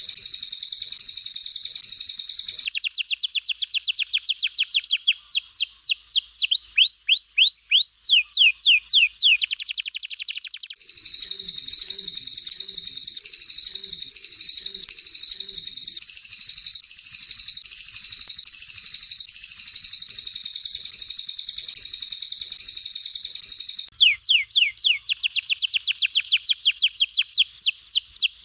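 Canary and cililin song for bird training (masteran). Long, high, dense buzzing trills alternate with quick runs of falling whistled sweeps, several a second; the sweep runs come about three seconds in and again near the end.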